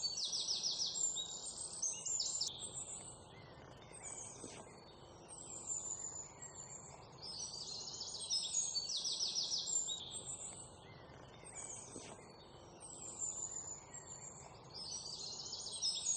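Birds singing high chirps and rapid trills, in bouts that come back about every seven to eight seconds with quieter gaps between, over a faint background hiss.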